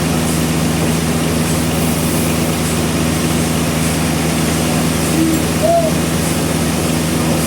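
Sawmill engine running steadily with a constant low drone.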